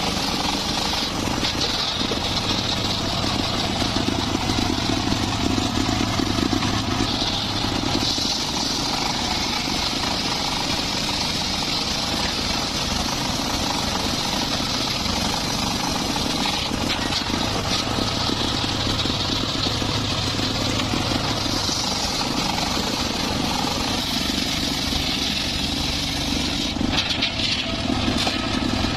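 Homemade engine-driven circular saw running steadily, a constant engine hum under a high saw whine that grows louder now and then.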